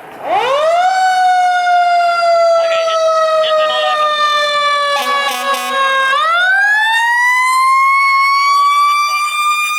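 Fire truck siren winding up to a high wail, sliding slowly down in pitch, then winding up again about six seconds in. A brief blast, likely the air horn, cuts in near the five-second mark.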